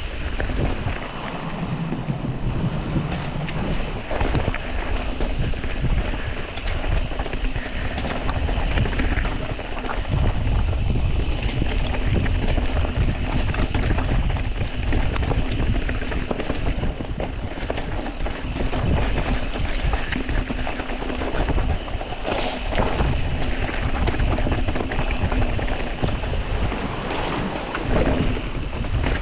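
Wind buffeting a moving ride camera's microphone as a mountain bike rolls down a rocky dirt trail, with tyre noise and frequent small knocks and rattles over the rough ground.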